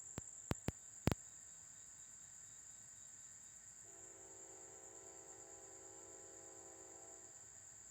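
Insects drone steadily at a high pitch, with a few sharp clicks in the first second. About four seconds in, a distant locomotive horn sounds one long chord of several notes for about three seconds, from the approaching CSX freight.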